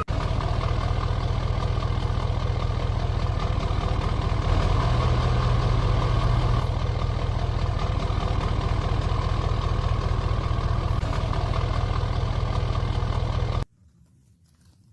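A vehicle engine running steadily at idle with an even, rapid pulsing, cutting off abruptly near the end.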